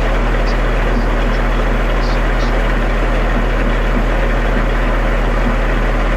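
Concrete mixer truck's diesel engine idling steadily with a deep, even hum.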